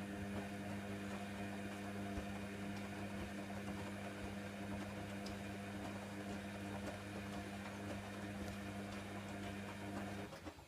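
Hoover Nextra washer dryer during its rinse: a steady electric hum from the machine's pump or water valve with water rushing through, cutting off abruptly near the end.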